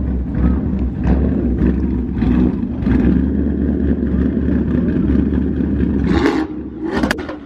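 Loud performance car engines revving hard in a rev battle, a heavy, steady exhaust rumble that drops off a little shortly before the end.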